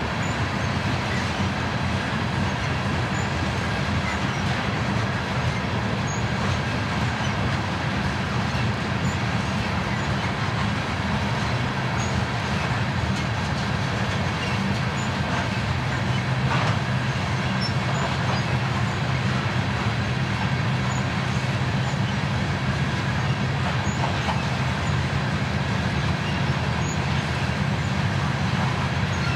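Loaded coal hopper cars of a freight train rolling past upgrade: a steady rumble of steel wheels on the rails.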